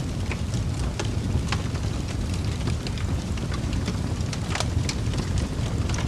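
Wood fire burning in a fireplace: a steady low rumble of the flames with irregular sharp crackles and pops, a few each second.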